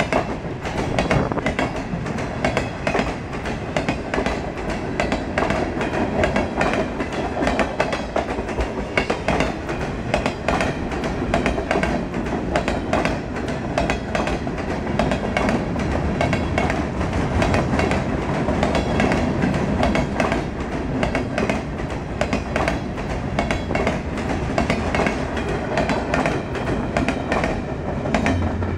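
Freight train of boxcars rolling past at close range: a steady rumble of the cars with rapid clickety-clack of the wheels over the rail.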